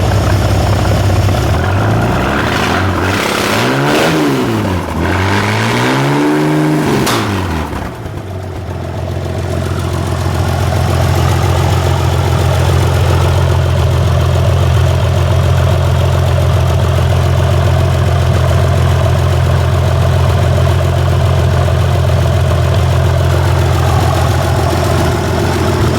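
GMC 302 military inline-six engine, fitted with three Rochester single-barrel carburettors and baffled headers, running cold. It is revved twice, about three and six seconds in, each time rising and falling back, and then settles into a steady idle.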